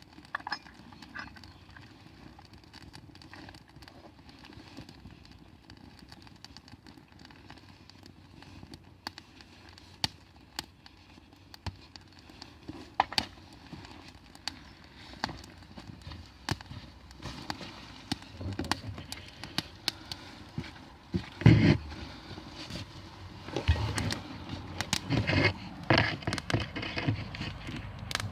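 Campfire burning with scattered sharp crackles and pops. A louder knock comes about two-thirds of the way in, followed by a stretch of knocking and handling noise near the end.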